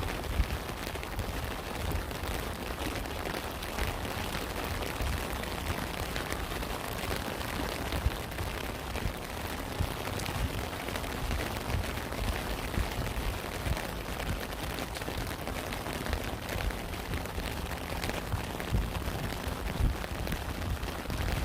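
Steady rain falling, with a low, uneven rumble underneath and a few sharper drop impacts standing out, one about half a second in and another about eight seconds in.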